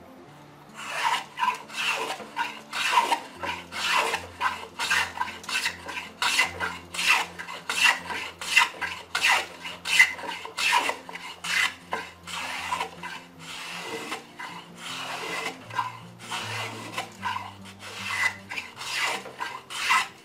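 Wooden-bodied rabbet plane (guillame) with a narrow iron shaving the edge of a wooden board in quick repeated strokes, about two a second, starting after a brief pause. The plane cuts smoothly, working perfectly with its iron freshly set.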